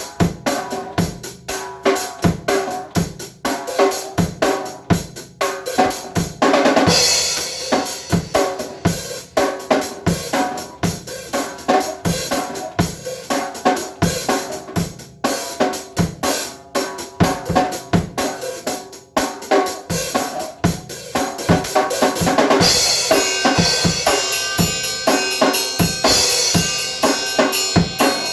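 Drum kit being played, with fast, busy strokes on the drums and cymbals. A cymbal crash comes about seven seconds in, and a cymbal rings on continuously over the beat from about 22 seconds in.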